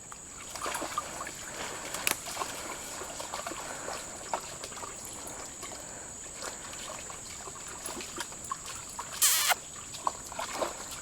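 Water trickling and splashing with many small irregular clicks, as dogs drink and wade at the water's edge. A brief, louder, high pitched sound about nine seconds in.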